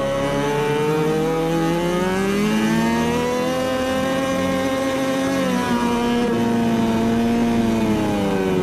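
MotoGP racing motorcycle engine running at high revs. Its pitch climbs slowly, holds, drops about two-thirds of the way through, then falls again near the end.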